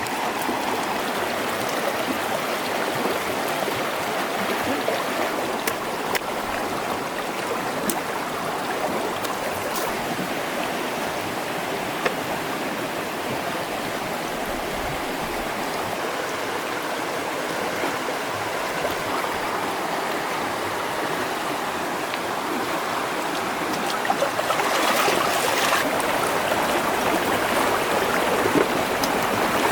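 Stream water flowing steadily, with a few faint clicks, growing a little louder near the end.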